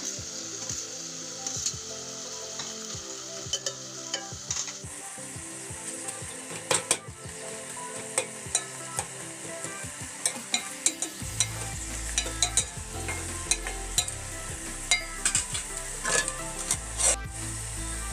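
Spring onion and egg curry frying in a pan: a steady sizzle while it is stirred, with repeated sharp knocks of the utensil against the pan that come more often in the second half.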